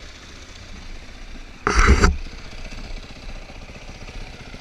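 Dirt bike engines running at a steady low rumble, with a short loud burst of noise about two seconds in.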